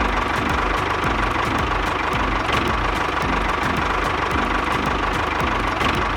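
Small electric motor of a homemade model tractor rig running steadily, with a fast, even rattle from its drive.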